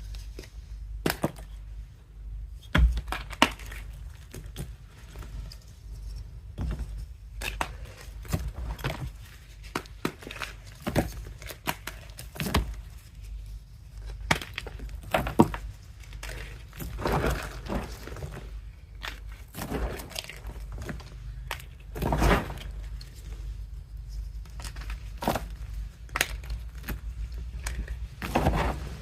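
Blocks of reformed gym chalk being crushed by hand, with irregular dry crunches and crumbling crackles, a few of them sharper and louder as pieces break.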